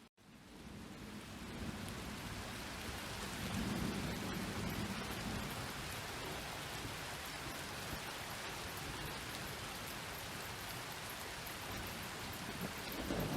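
Steady rain falling, with low rumbles of distant thunder: one swell about four seconds in and another building near the end. The sound cuts out for a split second at the very start.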